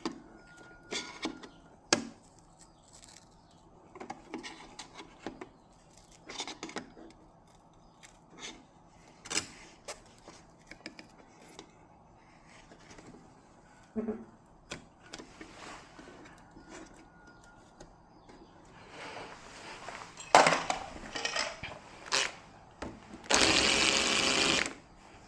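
Scattered clicks and knocks of hands and tools working on a TV, then near the end a small motorised hand tool running steadily for about a second and a half.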